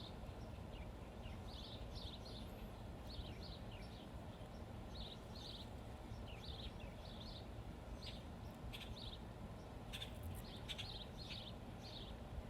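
Small birds chirping outdoors in short, repeated calls, some in quick pairs or triplets, over a steady low rumble.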